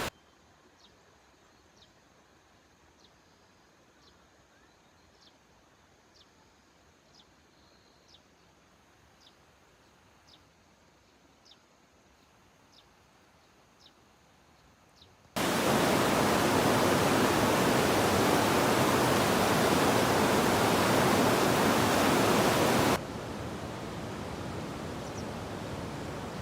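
Near quiet with faint high-pitched ticks about once a second. About fifteen seconds in, a loud, steady rushing of water starts suddenly, then drops to a softer steady rush some eight seconds later.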